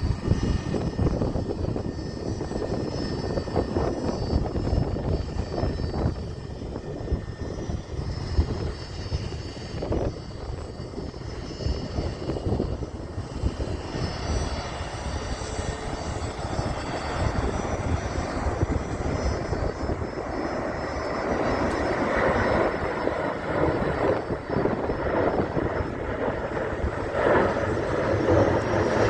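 Jet airliner's engines with a steady high whine, growing louder over the last third as the plane comes closer under go-around thrust. Gusty wind is buffeting the microphone throughout.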